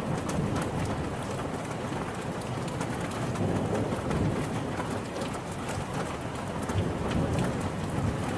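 Steady heavy rain falling, a dense even patter with many individual drop ticks on a surface.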